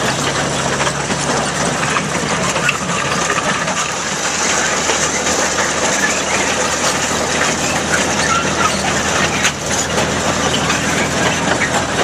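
A gasoline-powered Lombard log hauler's engine running steadily: a low hum under a dense mechanical clatter.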